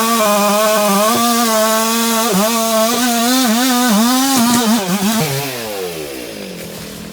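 Chainsaw at full throttle cutting wood, its high engine note sagging briefly again and again as the chain bites. About five seconds in, the throttle is released and the engine winds down toward idle.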